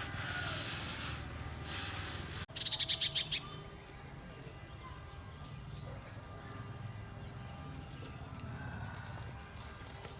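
Outdoor ambience: a steady high hiss over a low rumble, with a short, rapid trill of about eight high chirps just after two and a half seconds in.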